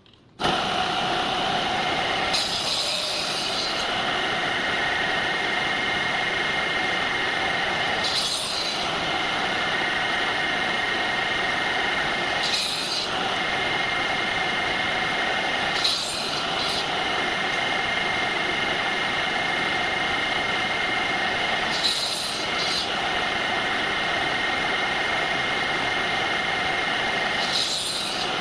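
Electric woodworking power tool switched on and running steadily, with a brief hiss every few seconds as it works the wood.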